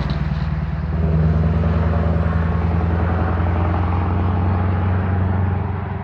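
Truck engine running with a deep, steady rumble, growing a little louder about a second in and easing off near the end.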